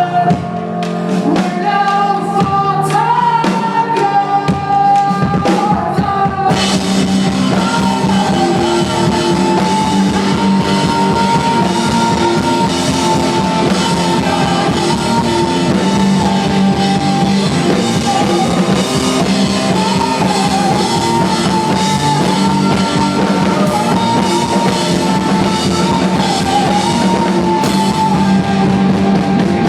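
Live indie rock band playing with a sung vocal line held over the instruments. About six seconds in the full band comes in with drums and guitar, and the sound stays loud and dense from there on.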